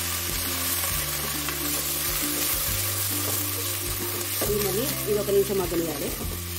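Chopped flat beans and onion sizzling in hot oil in an aluminium pressure cooker, stirred with a wooden spatula: a steady frying hiss with the scrape and turn of the stirring. Background music plays along with it.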